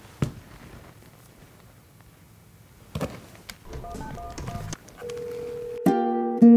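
A telephone being dialled: a knock, then a quick run of keypad beeps, followed by a steady ringback tone as the call connects. Plucked ukulele-like music comes in near the end.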